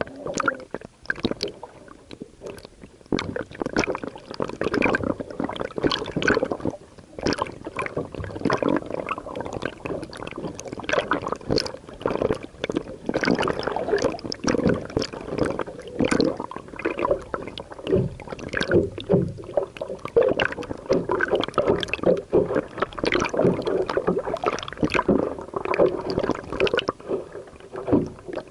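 Water splashing and sloshing close to the microphone, a dense, irregular run of splashes and knocks with no steady rhythm.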